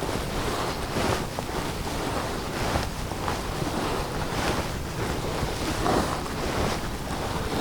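Wind blowing across the microphone: a steady rushing rumble with soft gusts.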